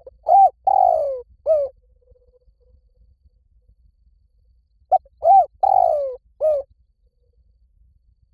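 Spotted dove cooing: two phrases of four low, arched coo notes each, the second phrase coming about five seconds after the first.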